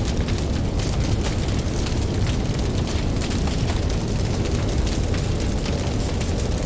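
Campfire crackling with many small quick pops, over a steady low rumble of ocean waves.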